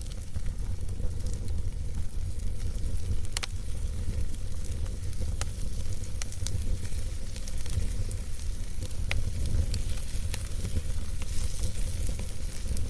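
Campfire burning, with scattered sharp crackles and pops from the wood over a steady low rumble and hiss.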